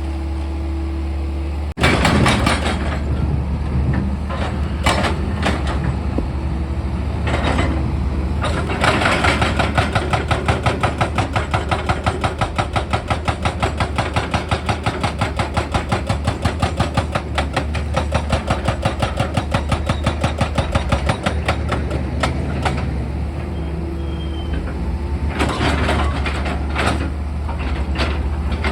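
Heavy diesel machine engine running steadily, with loud clattering bursts near the start and near the end. In the middle, a rapid even hammering of about five strikes a second runs for about twelve seconds.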